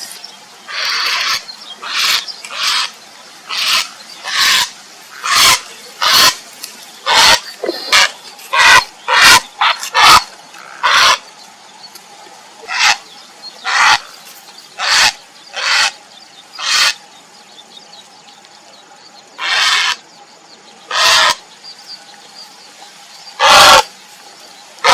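Grey heron giving a long series of harsh, croaking calls, one to two a second, with a few seconds' pause about two-thirds of the way through. The uploader presents these as calls to attract a mate.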